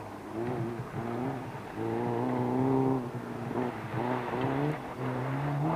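Rally car engine revving hard, its note repeatedly climbing in pitch and breaking off as the driver changes gear and lifts through the bends, with a longer held note about two seconds in.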